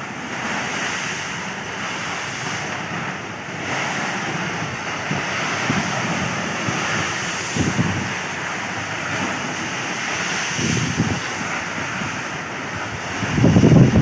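Strong wind blowing with waves washing, a steady rushing noise. Gusts buffet the microphone now and then, much heavier near the end.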